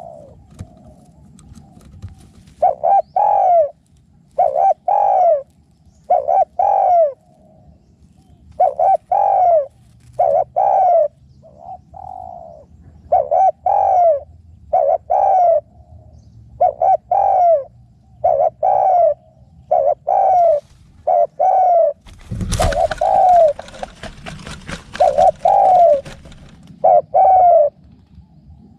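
Spotted doves cooing: short mellow coos, mostly in pairs, repeating every second or two. About two-thirds of the way through, a loud burst of noise lasts about a second over the calls.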